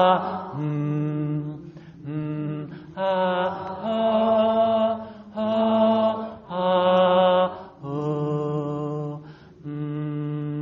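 A man's voice chanting long held vowel tones in a meditation toning exercise, stepping up and down between low, middle and high pitches. There are about seven notes, each one to two seconds long, with short breaks for breath between them.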